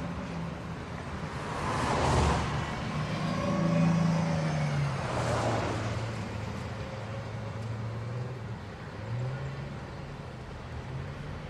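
Two cars passing close by, about two seconds in and again about five seconds in, their tyre noise swelling and fading over a low engine hum.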